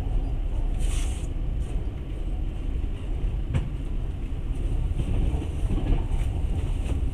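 Moving passenger train heard from inside the carriage: a steady low rumble of wheels on the rails, with a brief hiss about a second in and a faint click a few seconds later.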